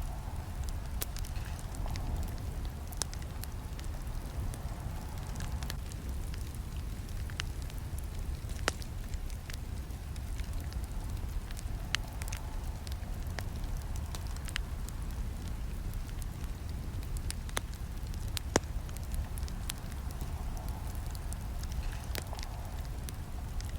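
Campfire burning with a steady low rumble and irregular sharp crackles and pops of burning wood. Two pops, about nine seconds in and near the end, stand out louder than the rest.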